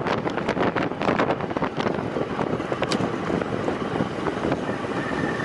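Wind rushing over the microphone of a rider's camera on a time-trial bike at race speed, gusting unevenly, with a faint steady high tone coming in near the end.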